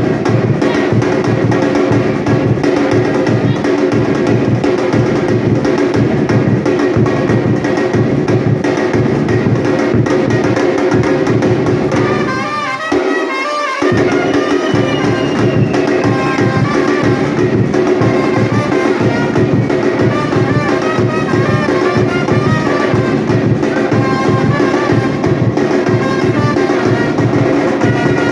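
Batucada drum ensemble playing a fast, steady samba rhythm. Midway the drums break off for about a second and then come back in.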